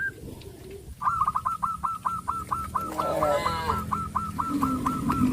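A bird calling in a fast, even run of short repeated notes, about five a second, which pauses briefly and resumes about a second in. A lower, fuller animal call overlaps it around the middle.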